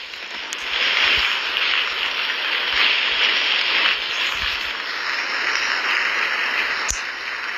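Steady, loud rushing of tornado wind, with one sharp click about seven seconds in.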